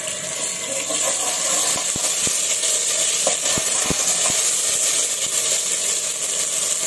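Ginger-garlic paste and cumin sizzling in hot oil in a large metal pot, a steady hiss, while a metal spatula stirs it and clinks against the pot a few times around the middle.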